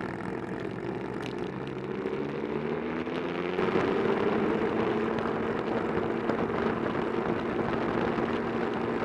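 Motorcycle engine running under way, with wind rush. About three and a half seconds in, the engine note changes and climbs as the bike picks up speed, then holds steady and a little louder.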